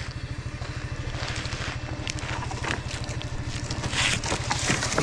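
Coleman UT400 UTV engine idling with a steady low pulse, with crackling and snapping over it that is loudest about four seconds in.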